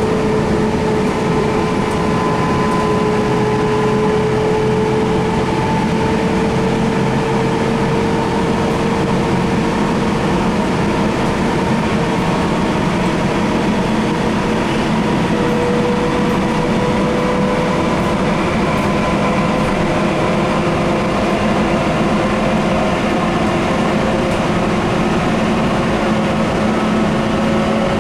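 Sound Transit Link light rail train heard from inside the car while running between stations, a steady rumble of wheels and car body under a motor whine that slowly rises in pitch as the train gathers speed.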